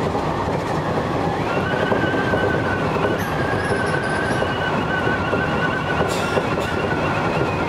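Sanyo Electric Railway electric multiple-unit train running along the line, a steady rumble of the ride with a steady high-pitched whine setting in about a second and a half in and holding.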